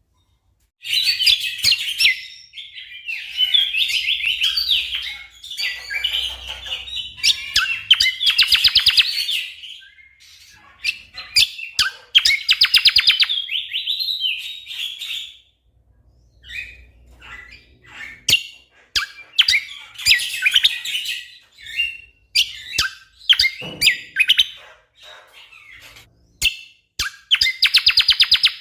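A cucak kombo (kecial kombo) songbird singing in full, dense song: long bursts of fast, chattering chirps and rapid staccato trills, broken by short pauses.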